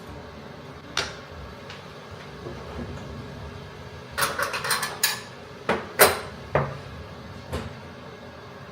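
Kitchenware being handled: a series of sharp clinks and knocks, one about a second in, a quick clatter of several around the middle, then a few single knocks toward the end.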